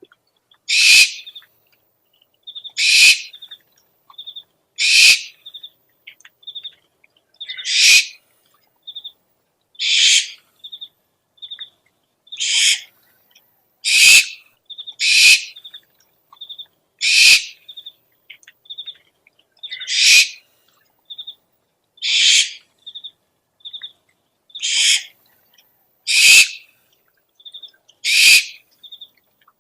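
Owl calls from an owl-lure recording: harsh, rasping screeches about every two seconds, with quick high pips in twos and threes between them.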